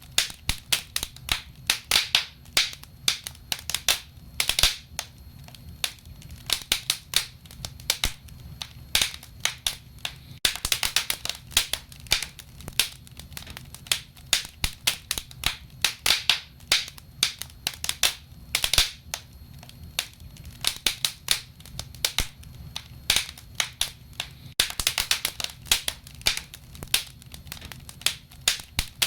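Wood fire crackling, with dense irregular crackles and sharp pops over a low steady rumble.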